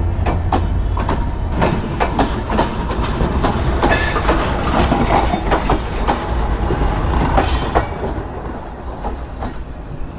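Train passing close by, its wheels clacking over the rail joints over a steady rumble, getting quieter near the end as it goes past.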